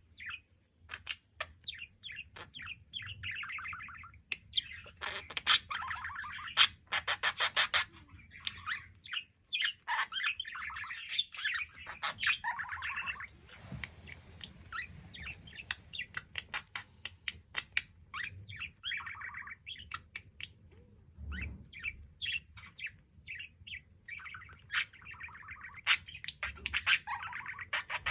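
Male budgerigar chattering and warbling continuously, the song broken by fast runs of clicks and short squawks. This is the courtship warble of a budgie in hormonal breeding condition.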